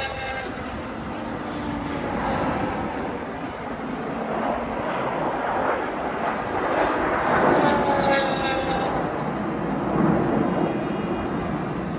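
Aircraft engines flying past at a flying display: a broad engine noise with whines that slide down in pitch as the aircraft go by, loudest a little past the middle.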